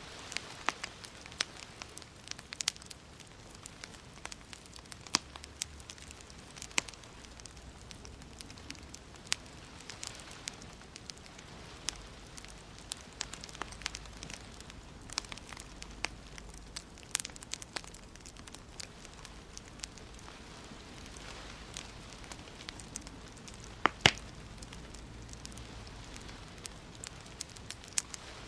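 Wood fire in a fireplace crackling, with irregular sharp pops over a steady low hiss; one pop about 24 seconds in is louder than the rest.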